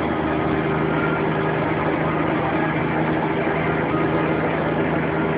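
Scania truck's diesel engine running steadily with an even, unchanging pitch.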